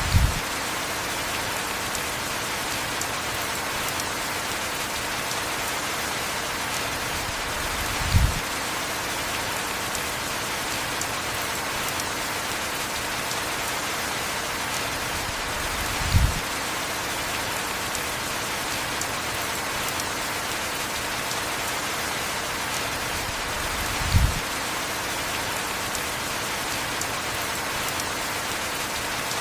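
Steady heavy rain, an even hiss. A short, dull low thump comes four times, about every eight seconds.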